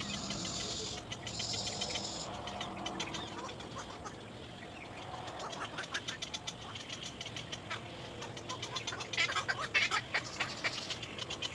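Nestling birds calling for food, a rapid, high chattering that goes on throughout, with a cluster of louder calls about nine seconds in.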